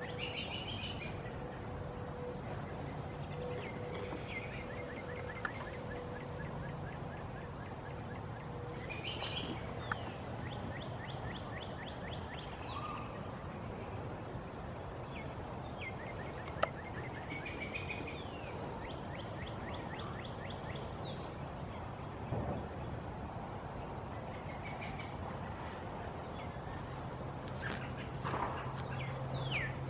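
Wild birds calling and singing, with several short, fast trills of rapid repeated notes, over steady background noise and a low hum. A few sharp clicks stand out.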